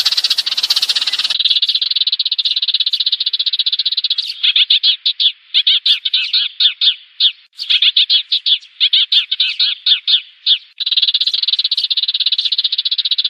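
Sparrows chattering a rapid run of high chirps, at times in one unbroken fast trill and at times in quick bursts with short gaps. It is a flock call, the decoy sparrow sound used to lure sparrows to a trap.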